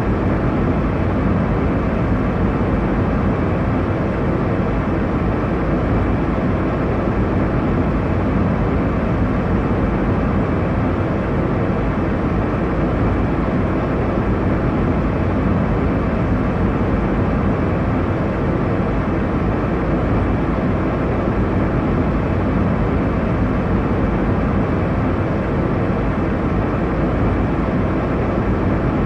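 Airliner cabin noise: a steady, even rumble and hiss of engines and airflow, mostly low and unchanging in level.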